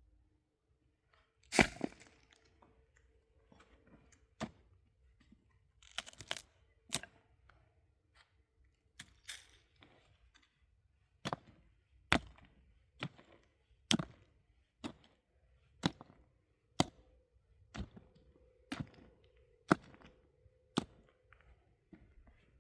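Sharp strikes of a hand tool into hard material, a few scattered blows at first, then a steady chopping stroke about once a second.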